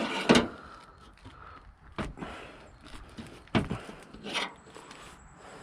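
Several sharp knocks and clunks, the loudest just after the start and about three and a half seconds in, with quiet between them.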